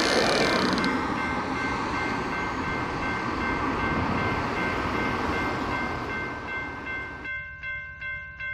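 A train passing a railroad crossing, a steady rushing rumble with the crossing bell ringing over it. About seven seconds in the train noise cuts off, leaving the crossing bell ringing alone at about two and a half rings a second.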